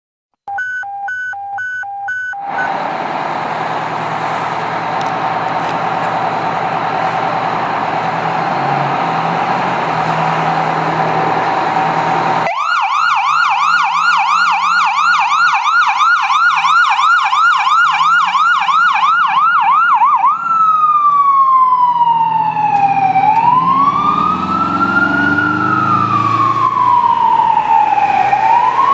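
Fire engine siren (a PA200 electronic siren) on a 1990 Pierce Lance pumper, running over the truck's engine. It opens with a few short beeps and a long steady blast, switches to a fast yelp for about eight seconds, then to a slow rising and falling wail.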